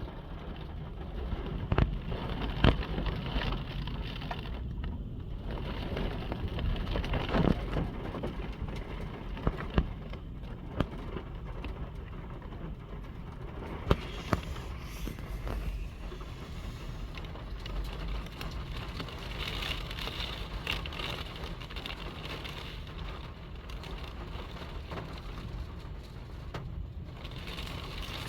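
Strong wind gusting and rumbling on the microphone, with rain falling, during a severe windstorm. About six sharp knocks or taps stand out in the first half.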